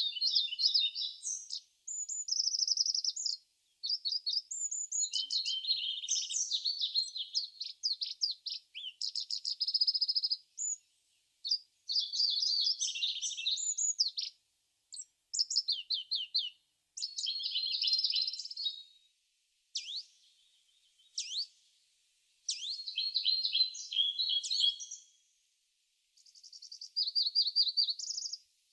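Songbirds singing: a fast, continuous run of varied high-pitched chirps, trills and whistles, in phrases broken by brief pauses.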